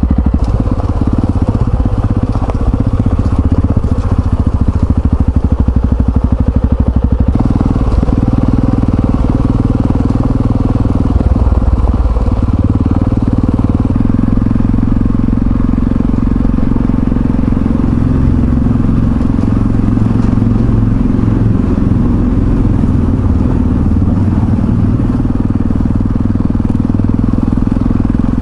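Yamaha XT660Z Ténéré's single-cylinder engine running steadily under way, with an abrupt change in the sound about seven seconds in.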